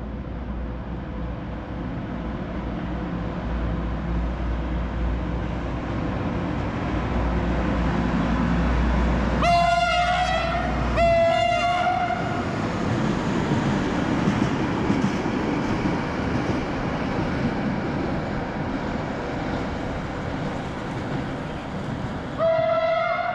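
A train passing on the tracks below, its running rumble building through the middle, with two short horn blasts in quick succession about ten seconds in and a third blast near the end.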